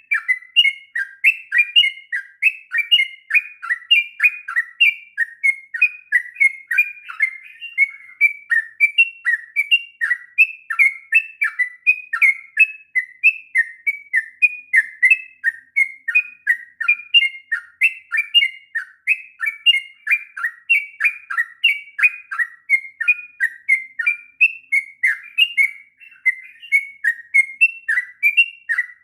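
Sooty-headed bulbul (trucuk) singing a long, unbroken run of quick, bright chirping phrases, about three a second with no pauses. This is the continuous 'ngropel' song that birdkeepers play to train young bulbuls.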